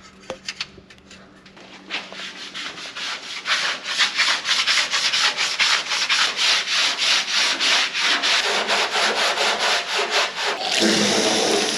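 Sponge scrubbing pad rubbing hard on the painted sheet metal of a 1958 Chevy 3100 pickup in quick back-and-forth strokes, about four a second, which grow louder about two seconds in. It is scouring off the top coat of blue paint to bring out the older colours beneath. Near the end the strokes give way to a steady hiss.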